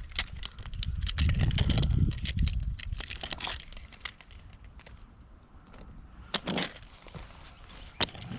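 Dry leaves and twigs rustling, crackling and snapping, with scattered sharp clicks. A low rumble comes in about a second in and lasts about a second and a half.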